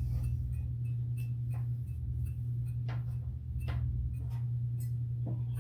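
Hunter ceiling fan motor running with a steady low hum and irregular ticks and faint short high chirps: the long-standing squeak, which the owner suspects comes from a dry bearing or something on the motor shaft.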